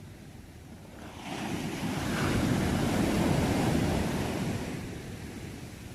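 A single sea wave breaking and washing in as surf: the rush builds about a second in, peaks midway, and fades away near the end.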